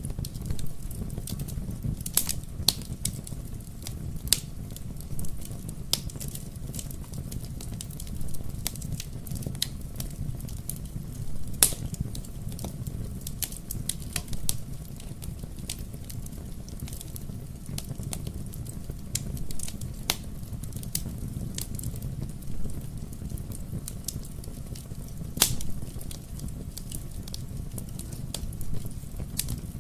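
Wood fire crackling: irregular sharp pops and snaps, one loudest a little before the middle, over a steady low rumble of the burning fire.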